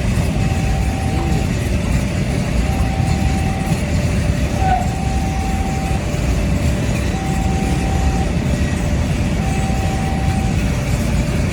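A fuel-oil tanker train behind a CC 202 diesel locomotive rolls past with a steady, heavy rumble. Over it, a level-crossing alarm alternates between a higher and a lower tone, each held about a second.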